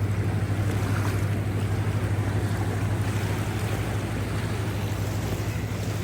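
Swollen river in flood, water rushing steadily, with a strong steady low hum underneath.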